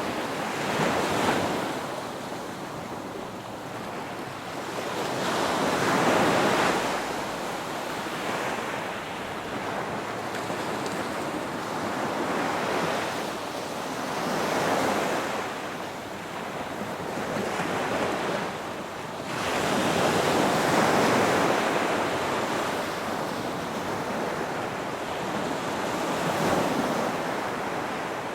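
Ocean surf: waves breaking and washing in, rising and falling in swells every few seconds.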